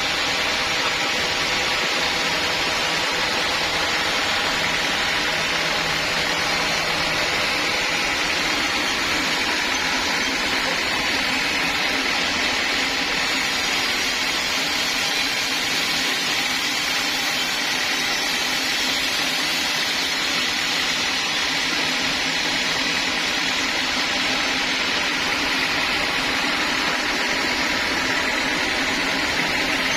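Sawmill saw running steadily through teak wood, a constant loud machine noise that does not change.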